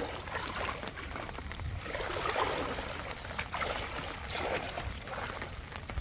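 Rainwater pouring and splashing in uneven swells, with small drips and clicks.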